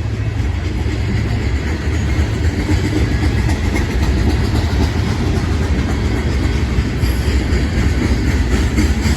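BNSF freight train of tank cars rolling past: a loud, steady rumble of steel wheels on the rails, with faint clicking from the wheels.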